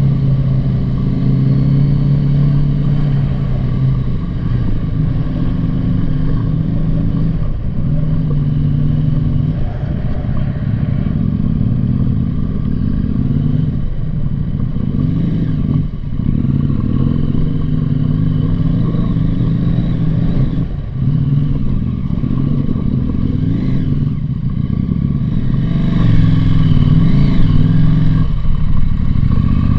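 Motorcycle engine running under way, its pitch rising and falling with the throttle and dipping briefly several times, over wind and road noise.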